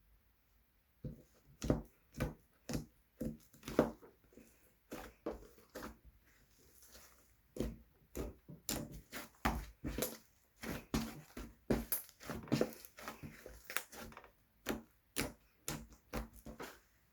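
Slime being squeezed and pressed by hand: an irregular run of short squishing pops and clicks, starting about a second in.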